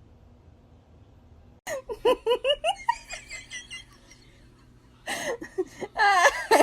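A person laughing in a quick run of high-pitched ha-ha notes that starts suddenly about two seconds in, then breaks into louder, higher laughter near the end.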